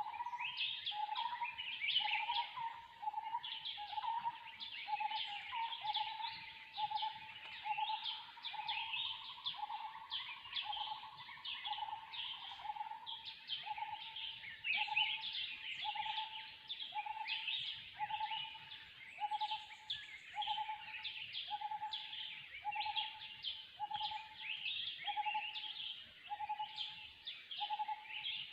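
Forest birds calling. One bird repeats a short, low, hooting note about once a second in a steady series, over a busy chorus of higher chirps and trills.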